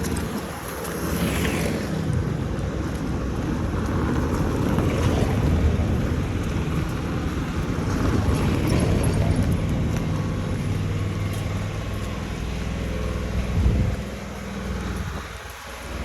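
Motor vehicle engine running close by in street traffic, growing louder in the first couple of seconds and easing off after about ten seconds, with one short loud knock near the end.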